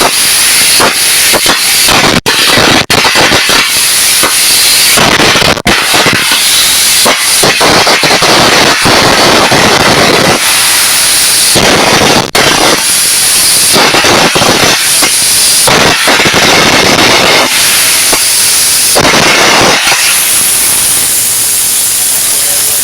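Air carbon arc gouging: a carbon electrode arcing against steel while a jet of compressed air blows away the molten metal, a loud continuous crackling hiss with a few brief breaks in the arc.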